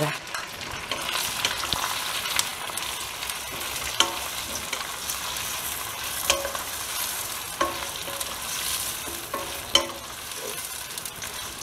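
Cubed raw mango and slit green chillies sizzling in hot oil in a stainless steel pot, stirred with a wooden spatula that knocks against the pot several times.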